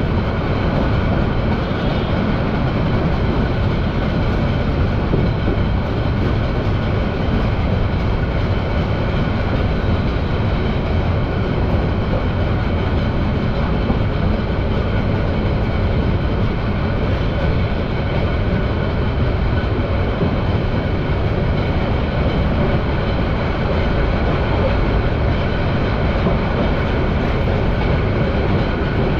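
Bangladesh Railway Agnibina Express passenger train running along the track, heard from inside a carriage: a loud, steady rumble of wheels and carriage that holds even throughout.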